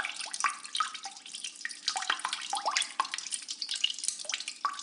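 Running water trickling and babbling, full of quick bright plinks of drops and bubbles, each sliding slightly up in pitch.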